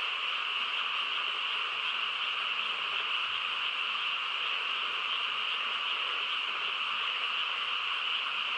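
A dense chorus of many frogs calling at night, so many voices at once that it merges into one unbroken, steady din with no gaps.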